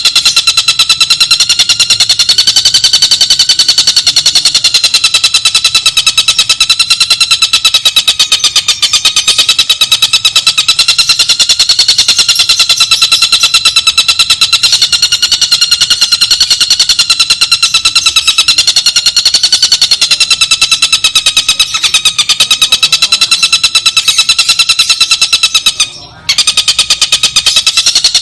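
Tengkek buto recorded for bird-training: a rapid, unbroken pulsed trill at a nearly steady pitch, with one brief break near the end.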